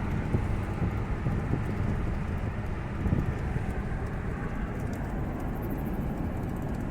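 Steady road and engine noise of a car driving at moderate speed, heard from inside the car.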